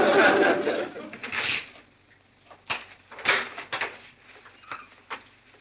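A two-note doorbell chime stepping down in pitch, with a noisy burst over it, then several separate knocks and clicks, like a door being opened.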